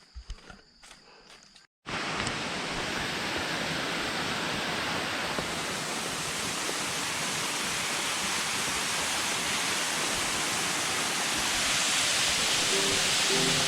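Faint footsteps on a trail, then after a sudden cut about two seconds in, the steady rushing of a waterfall, growing slightly louder near the end.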